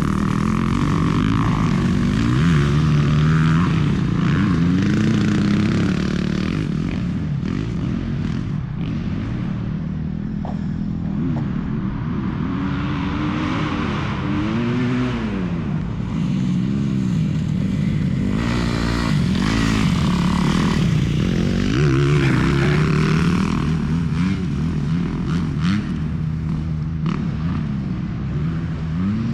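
Motocross dirt bike engine being ridden hard, its pitch rising and falling again and again as the throttle opens and closes and the gears change.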